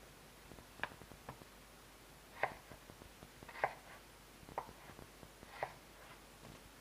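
Light knocks and clinks of kitchen utensils and cookware, about five of them at irregular intervals of roughly a second.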